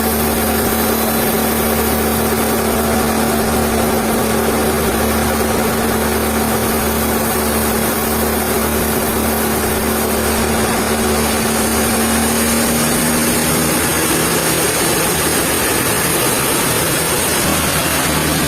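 Sawmill machinery running steadily, with a steady hum that stops about two-thirds of the way through.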